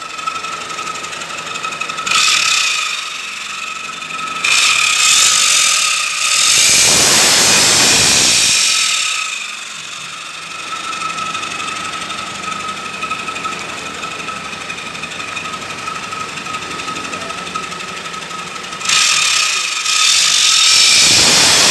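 Engine running through an aftermarket exhaust, idling with a steady high whine and revved up several times: a short rev about two seconds in, longer revs from about four and a half to nine seconds, and another near the end.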